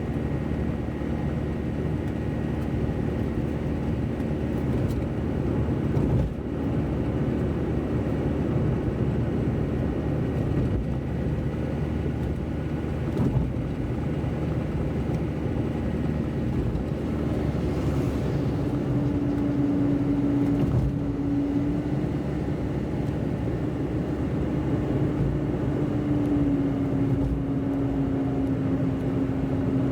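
Steady road noise of a car driving on wet roads, heard from inside the car: tyre hiss and a low engine and road rumble. About two-thirds of the way through a steady humming drone joins in and holds.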